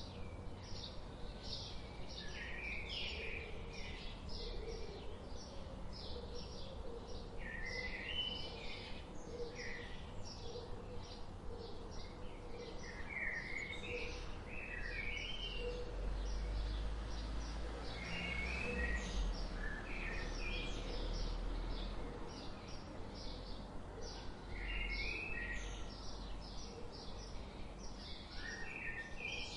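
Songbirds chirping and singing: a dense stream of short, high chirps with louder whistled phrases every few seconds, over a low rumble that swells in the middle.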